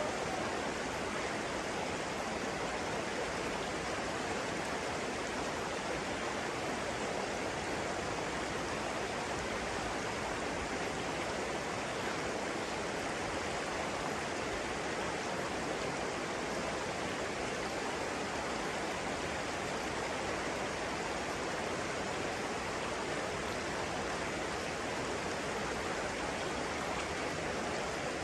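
Flowing water rushing steadily: an even, unbroken hiss with no changes.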